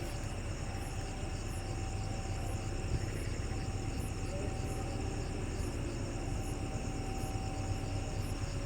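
Steady low rumble of a diesel locomotive running, with insects chirping steadily in the background.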